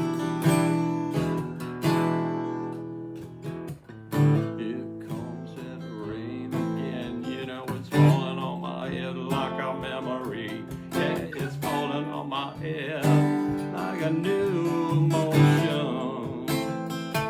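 Instrumental passage of acoustic guitar music: strummed chords, with a melody line over them that moves and bends in pitch from about four seconds in.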